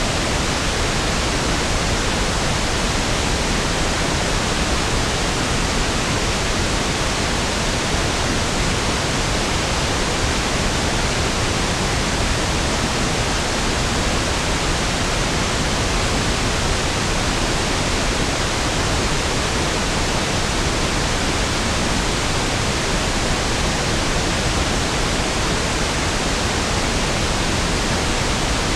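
Pink noise (1/f noise): a steady, even hiss with equal energy per octave, smoother and deeper than white noise, unchanging throughout.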